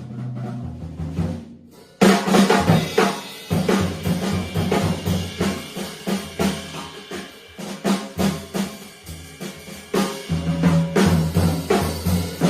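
Jazz drum kit playing busy snare and bass-drum fills in a bebop tune, with sustained low notes from the band underneath. The music drops back briefly just before two seconds in, then comes in hard on a loud hit.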